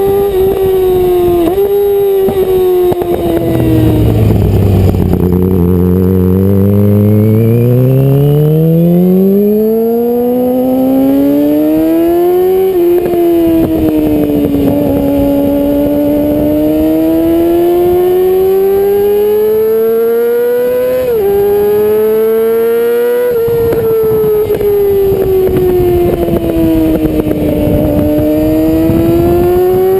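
Yamaha YZF-R6 inline-four running through a Termignoni full exhaust system while under way. The revs rise and fall, with sudden drops in pitch at gear changes. About five seconds in it slows to a low engine speed, then builds again.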